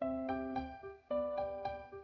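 Background music: a melody of separate struck keyboard notes, starting suddenly out of silence.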